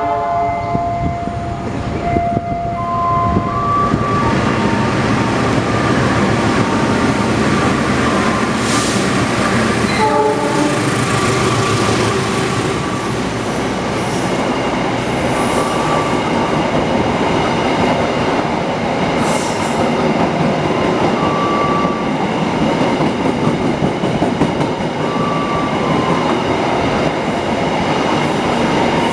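Express passenger train led by a CC 206 diesel-electric locomotive passing through a station at speed: the horn sounds in the first few seconds, then a continuous loud rumble of the carriages running over the rails.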